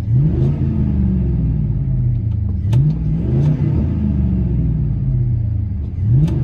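The 6.0 L V8 of a 2002 GMC Yukon Denali, with a true dual exhaust through a Flowmaster Super 10 muffler, heard from inside the cabin. It is revved in quick blips near the start, about three seconds in and near the end, and each time the revs sink slowly back down.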